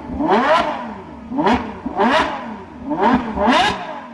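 Ferrari F12berlinetta's V12 engine being revved in quick throttle blips, about five sharp rises and falls in pitch, mostly in pairs.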